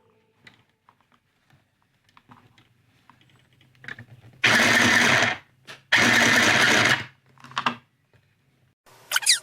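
Singer EZ toy sewing machine running in two short bursts of about a second each, then a brief third, with small handling clicks before them.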